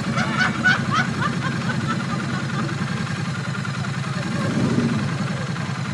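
Motorcycle engine idling steadily, a low, even rumble.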